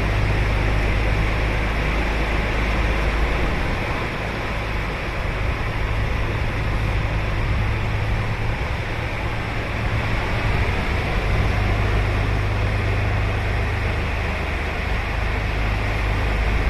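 Ocean surf on a sandy beach: a steady wash of breaking waves that swells and eases slowly, over a low rumble.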